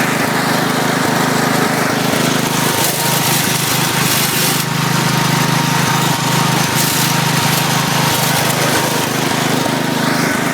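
1972 IH Cub Cadet 128 garden tractor's single-cylinder engine running steadily under load as the tractor drives along in third gear, with a few brief rushes of hiss about three, four and a half and seven seconds in.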